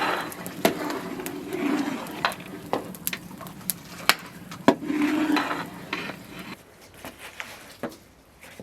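Utensils knocking and scraping against cookware in a series of sharp clicks, with two longer stretches of scraping or stirring; it grows quieter near the end.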